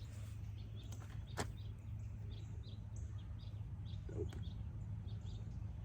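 Small birds chirping over and over, with a steady low hum underneath and a single sharp click about a second and a half in.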